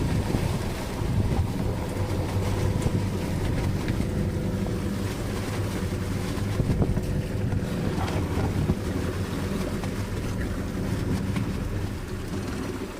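Small fishing boat's motor running steadily while trolling, with wind on the microphone and water noise; it gets quieter near the end.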